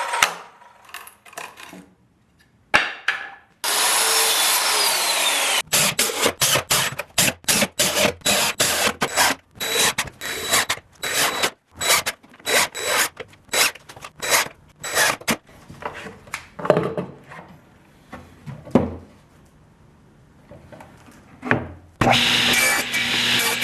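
Hand tools working wood: a short stretch of steady noise, then a long run of quick, sharp strokes, then steady noise again near the end.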